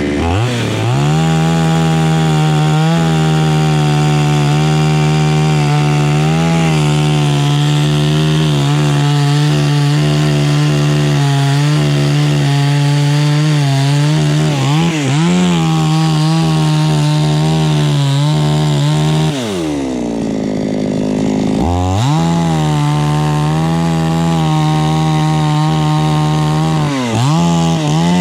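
Chainsaw held at full throttle, cutting into a dry jackfruit tree, with a brief sag in the middle. About two-thirds of the way through it drops to idle for a couple of seconds, then revs straight back up and keeps cutting.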